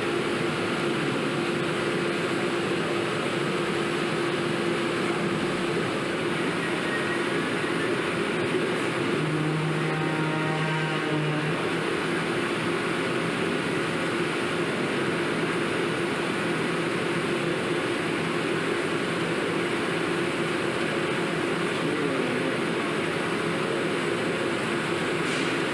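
Steady production machinery noise: an even rushing sound with a constant hum, and a lower tone joining for about two seconds roughly ten seconds in.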